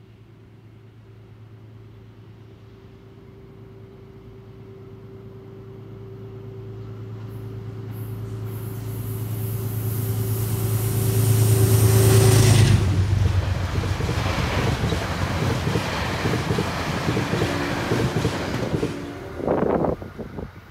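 A train approaching along the track, its steady low hum growing louder for about twelve seconds. Then comes the loud rush of the train passing close by for several seconds, easing off near the end.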